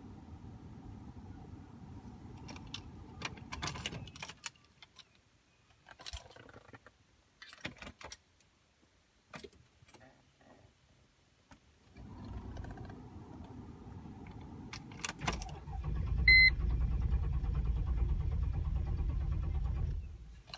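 Mercedes-Benz ML500 V8 being cranked by its starter without catching, a long crank that ends abruptly near the end; the engine will not start after stalling on low fuel. In a quiet stretch in the middle, keys jangle and click. A short electronic chime sounds partway through the last crank.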